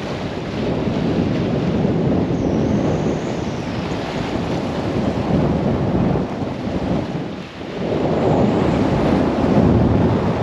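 Gale-force wind buffeting the microphone in heavy gusts, a loud low rumble that rises and falls, with rain and waves beneath it; it eases briefly about seven and a half seconds in.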